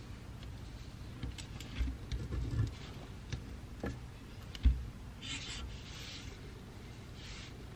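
Pencil scratching on paper at a desk, in short spells of writing, with small knocks and one sharper thump on the desk about four and a half seconds in.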